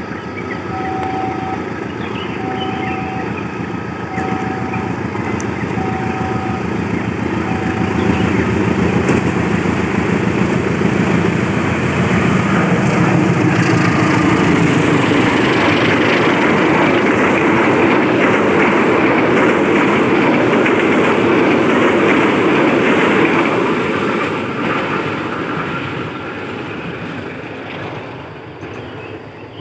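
A level-crossing alarm beeps steadily, about once a second, for the first eight seconds as a KAI diesel locomotive approaches. The locomotive and its carriages then pass close by, the engine and the wheels on the rails loud for about ten seconds before fading away near the end.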